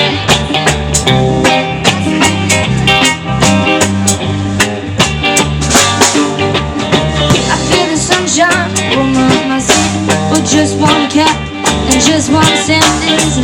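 Live band playing an instrumental passage with electric guitar, bass and drum kit in a steady ska-like groove.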